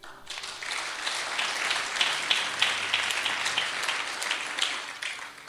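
Congregation applauding, a dense patter of many hands clapping that starts at once, holds, and dies away near the end.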